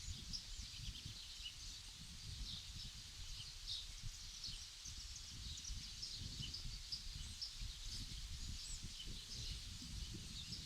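Small birds chirping in many short, scattered calls over a low, uneven rumble.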